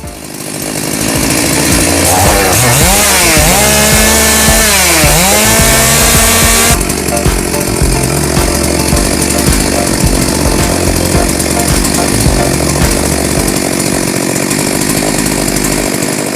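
Stihl MS 382 two-stroke chainsaw running at high revs. Its pitch dips and rises several times in the first seven seconds, then the sound changes abruptly and it runs steadily.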